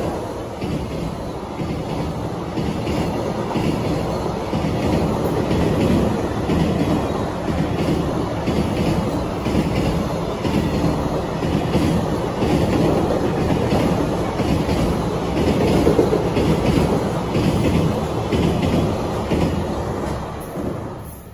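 Freight train hauled by an EF66 electric locomotive passing over a steel girder bridge, its wagons' wheels clattering over the rail joints in a steady rhythm. The sound fades near the end as the last wagons go by.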